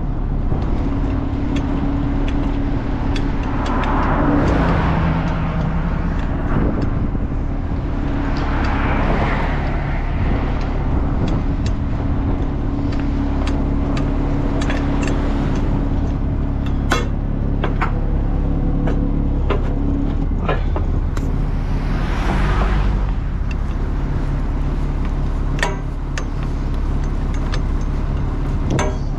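An engine running steadily, with a rush of noise swelling up and dying away three times and scattered sharp clicks.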